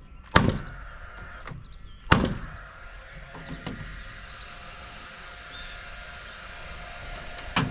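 Two sharp knocks about a second and a half apart, each with a short ringing tail, then a few lighter taps, from fastening work on wooden roof framing.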